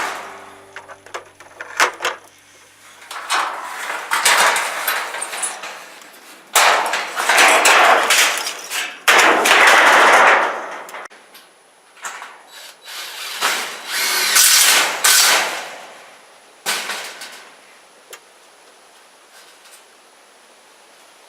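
Power-tool work on a wooden chicken coop: several separate runs of a second or two each, most of them in the first half, with sharp knocks and clicks between them.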